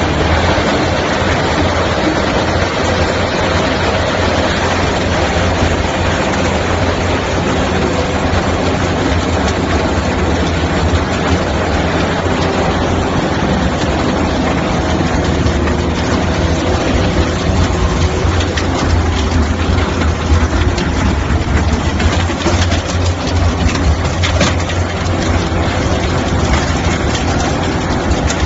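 Skid steer loader's engine running steadily, a heavy low drone with a dense mechanical noise over it.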